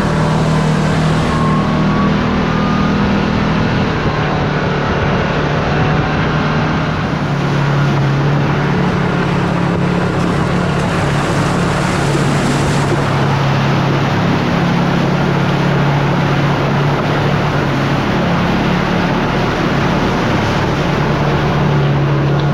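Side-by-side UTV engine running steadily while driving, its drone shifting slightly in pitch, under a constant rush of wind and trail noise.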